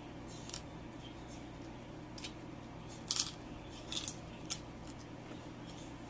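A handful of short, sharp clicks and clacks from seafood shells and utensils being handled during a seafood meal, over a steady low hum.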